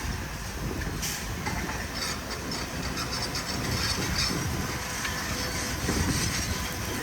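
Heavy earthmoving machinery working: a steady low rumble with clanking and rattling, with a patch of scraping or rattling about two to four seconds in.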